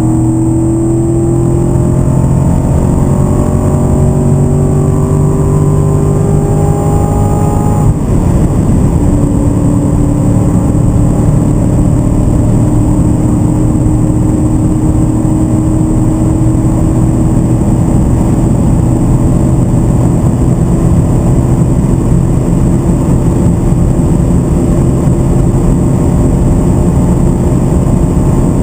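2014 Corvette C7 Stingray's 6.2-litre V8 pulling hard under full acceleration, its note climbing slowly. About eight seconds in the pitch drops sharply at a manual upshift. The engine then pulls on in a high gear, rising only slowly in pitch under heavy wind and tyre noise at very high speed.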